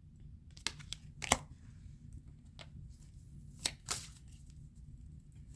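Tarot cards being handled: a few short, crisp card snaps and flicks, the sharpest about a second in, over a low steady hum.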